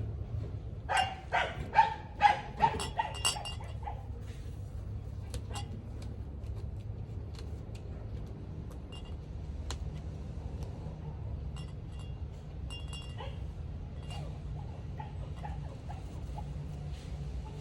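A small pet animal giving a quick run of short, pitched calls about a second in, lasting two to three seconds. After that come scattered faint clicks over a steady low hum.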